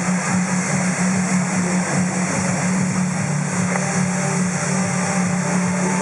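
Steady low drone of an engine running, with no bangs or changes.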